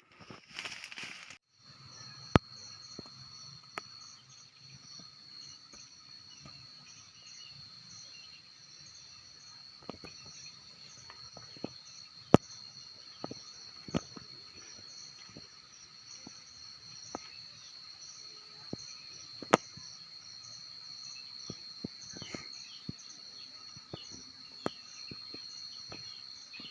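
Insects chirring in a steady, high-pitched drone, with a pulsing trill just above it, broken by scattered sharp clicks and knocks.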